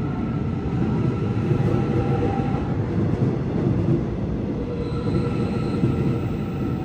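A train running along the track at close range: a steady, loud rumble with faint whining tones above it, and a higher whine coming in about five seconds in.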